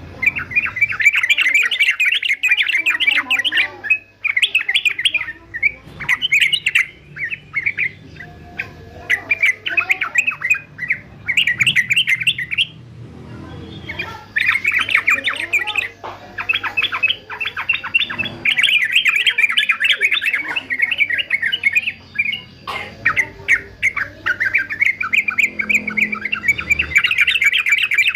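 Male yellow-vented bulbul (trucukan) singing in rapid chattering phrases, each about one to four seconds long and separated by short pauses.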